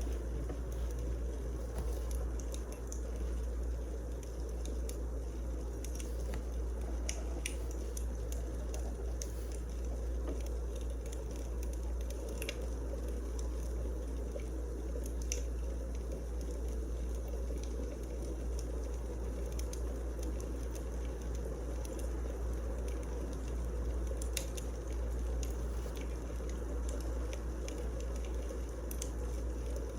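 Wood fire burning: a steady hiss with scattered sharp crackles and pops, over a low rumble.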